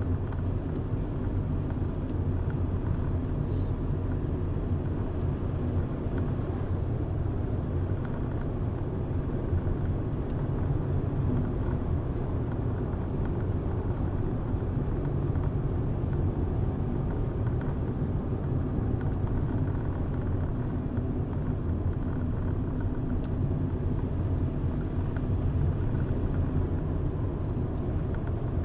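Car driving at steady speed: a constant low rumble of engine and tyres on the road.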